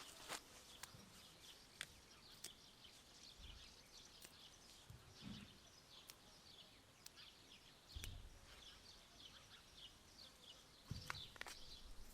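Faint outdoor ambience with many short, high bird chirps scattered throughout and a few soft clicks and low thuds.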